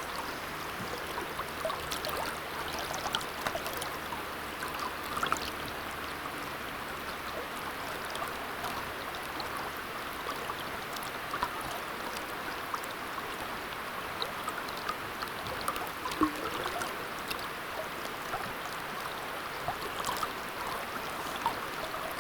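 Steady rushing of a river's current, with small scattered ticks of water.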